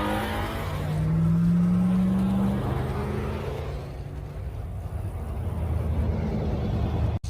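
A car engine accelerating as the car pulls away, its pitch rising over the first couple of seconds and then easing, over a steady low rumble of running engines. The sound drops out briefly just before the end.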